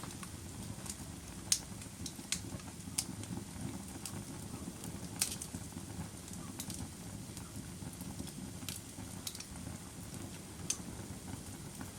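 Fire crackling: a steady low rumble of flames with sharp, irregular pops every second or so. The loudest pops come about a second and a half in and about five seconds in.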